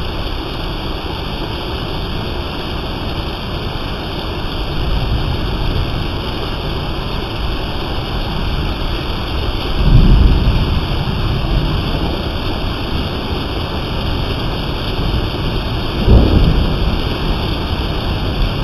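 Steady rain, with two brief low rumbles about ten and sixteen seconds in.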